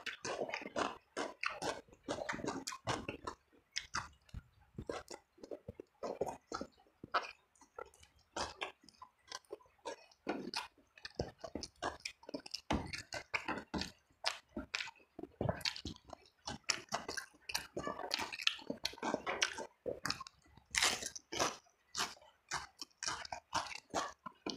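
Close-up mouth sounds of a person eating: wet chewing with crunchy bites, several irregular crackly strokes a second, as in an eating-show recording.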